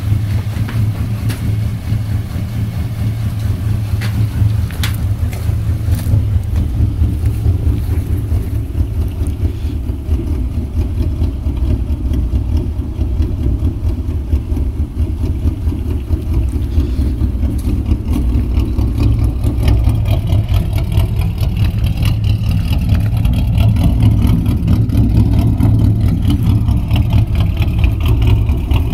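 Ford Mustang 4.0 V6 running with long tube headers and a true dual exhaust with Cherry Bomb glasspacks, a steady deep exhaust rumble. It grows slightly louder in the last several seconds.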